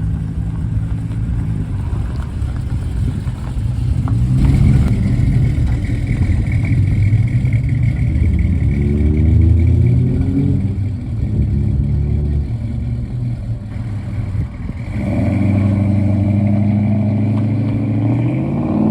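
Car engine running at low revs, its pitch rising and falling as it pulls away, with a further rise in revs near the end.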